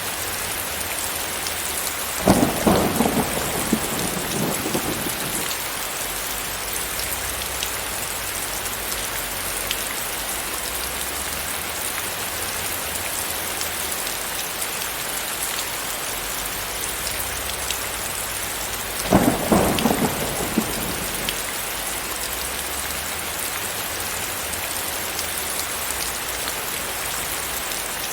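Steady rain hissing, with two sudden cracks of thunder, about two seconds in and again near nineteen seconds. Each crack rumbles and crackles away over two or three seconds.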